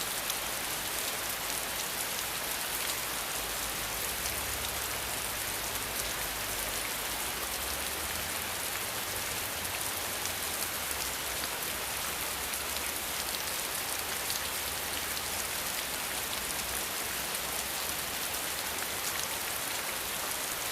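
Steady rain falling, a dense, even patter of many drops with no break or change.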